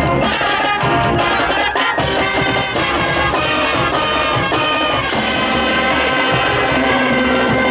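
Marching band playing: brass and woodwinds over drums, moving into long held chords about five seconds in.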